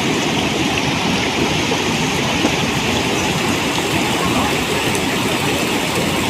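Floodwater rushing, a loud, steady, even noise with no breaks.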